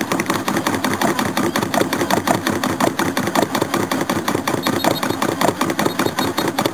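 Holden 308 V8 engine running unevenly just after a hard cold start on petrol, with a fast, steady pulsing beat.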